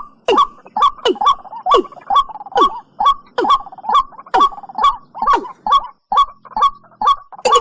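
Male watercock calling in a steady series of hollow notes, about two a second, each dropping sharply in pitch.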